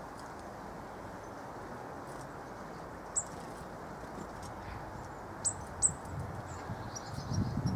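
Three short, thin, high chirps from a small garden bird, one around the middle and two close together a little later, over a steady low background hiss that swells near the end.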